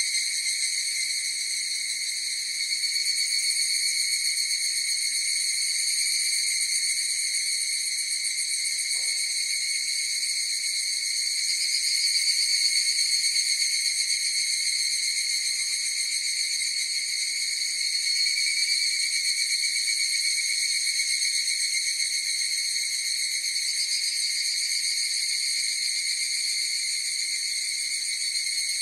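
A chorus of evening cicadas (higurashi, Tanna japonensis) calling together, the many overlapping calls merging into a steady, continuous high-pitched trill.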